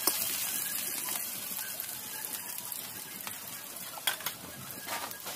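Chopped onions sizzling as they fry in hot oil in a large kadai, a steady hiss, with a few sharp clicks, one at the start and two more near the end.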